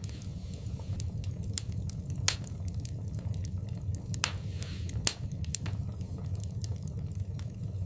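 Wood fire in a fireplace crackling, with frequent small snaps and a few louder pops over a steady low rumble of the flames. A short hiss comes about four seconds in.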